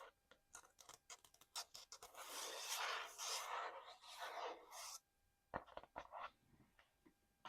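Fingers tapping and scratching on small collectible items: a quick run of sharp taps, then about three seconds of dense scratching, then a few separate taps near the end.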